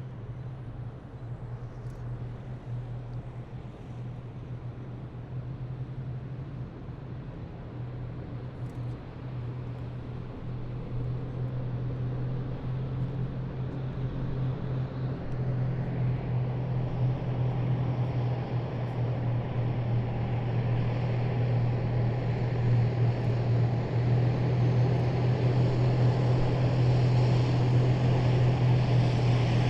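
Heavy military vehicles approaching: a deep, steady engine drone with growing road noise that gets steadily louder over the whole stretch.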